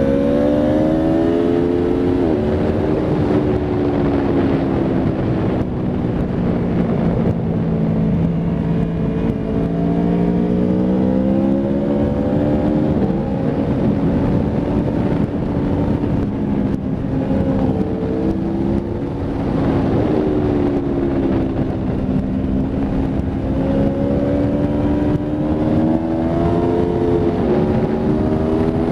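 Aprilia Tuono V4 RR's V4 engine at track pace, with wind rush over the microphone. The engine note climbs and falls repeatedly, with sudden drops in pitch at the gear changes.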